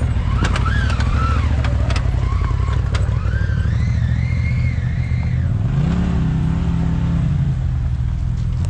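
An off-road vehicle's engine running at crawling speed, with a wavering whine above it. About six seconds in, the engine revs up briefly and then holds.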